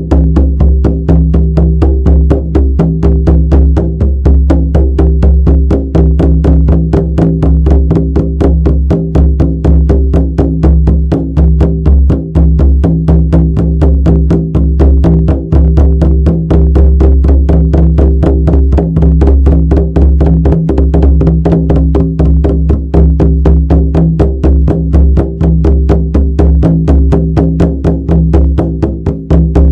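Shamanic frame drum beaten in a fast, even, unbroken rhythm, each stroke ringing over a steady deep resonance.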